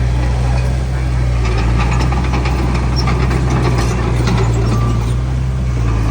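Heavy diesel engine of earthmoving machinery running steadily, with a strong, even low hum and light ticks over it.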